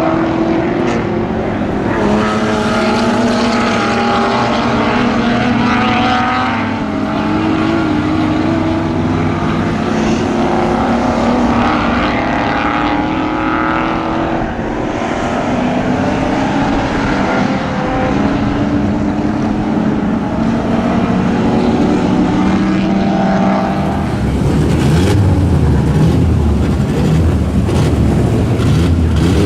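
Vintage muscle race cars' engines at racing speed, several cars passing in succession with engine notes rising and falling through the gears. Near the end the sound changes to a deeper, louder engine note.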